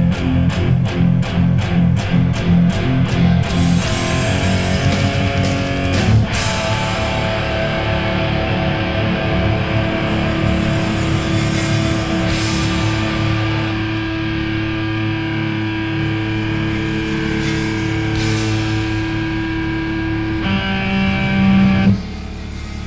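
Heavy rock guitar music: rapid repeated strikes for the first few seconds, then long ringing chords with cymbal-like crashes, dropping off sharply just before the end.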